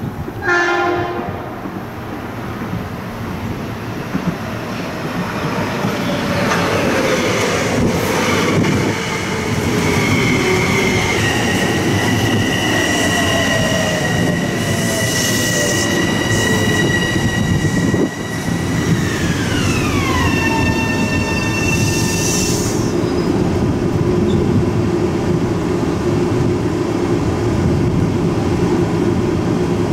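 Metro-North M7 electric multiple-unit train pulling into the station and braking to a stop. Its propulsion whine falls in pitch as it slows, steady electric tones slide down together near the end of braking, and there are brief hisses. Once the train stands, a steady hum carries on.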